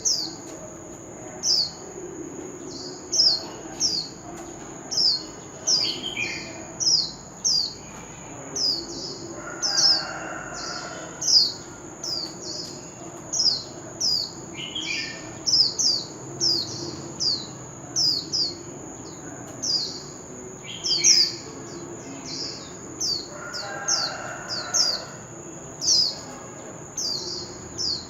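Oriental magpie-robin singing, repeating a short downslurred whistle about one or two times a second, with a few lower warbled phrases between, over a steady high-pitched whine.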